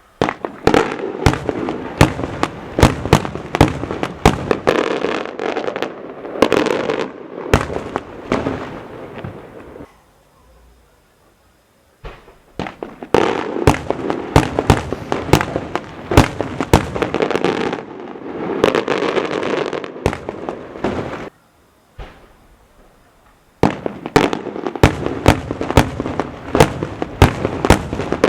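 Maltese festa fireworks going off in rapid barrages: many sharp bangs over a continuous crackle. The barrages stop abruptly twice, about ten and twenty-one seconds in, for a couple of seconds each.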